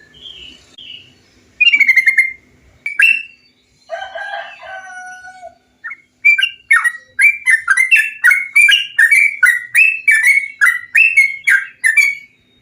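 Yellow-vented bulbul (trucukan) song: a few scattered calls, a harsher lower call a few seconds in, then a fast run of bubbly, rising-and-falling notes, about two or three a second, for the second half.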